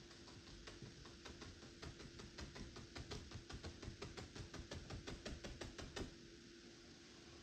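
A paintbrush dabbing paint onto canvas: a quick, even run of light taps, about five or six a second, that stops about six seconds in, over a faint steady hum.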